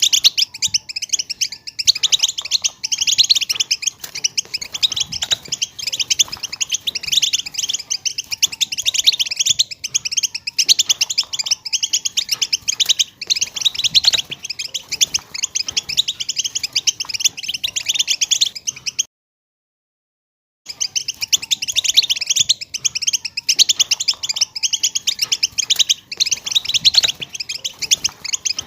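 A group of female European goldfinches giving their rapid twittering calls, a dense, continuous high chatter of many overlapping chirps. The sound drops out completely for about a second and a half past the middle, then the chatter resumes.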